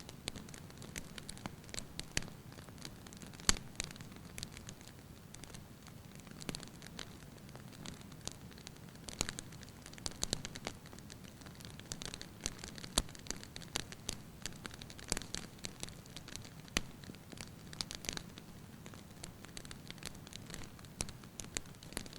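Firewood burning in a fireplace, crackling lightly: irregular sharp pops and snaps over a soft steady hiss of the flames, the loudest pop about three and a half seconds in.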